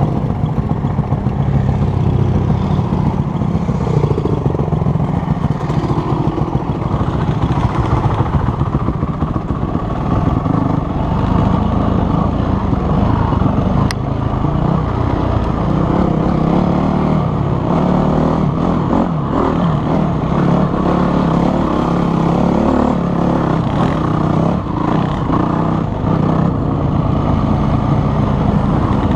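Dirt bike engine running on a trail ride, its note shifting up and down with the throttle.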